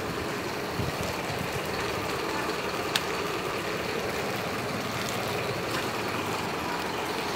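Steady hiss of rain on a wet town street, with one sharp click about three seconds in.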